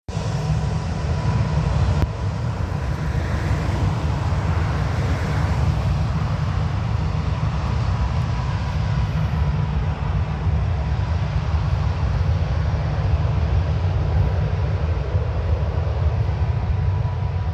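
Jet aircraft engines running at an airfield: a steady low rumble with a thin, steady whine above it.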